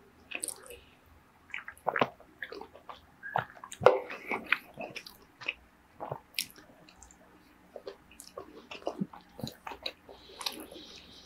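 Close-miked eating sounds: wet chewing, lip smacks and swallows of a mouthful of raw ahi poke and rice, in short irregular clicks.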